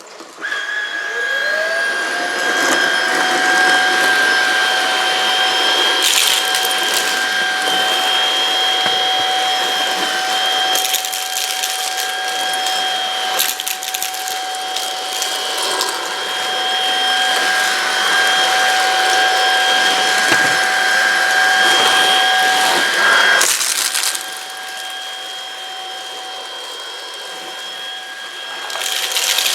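Aspiron cordless stick vacuum with a 250W brushless motor, spinning up with a rising whine and then running steadily with a high whine over rushing air. There are a few brief crackling bursts, and it goes quieter about 24 seconds in before getting louder again near the end.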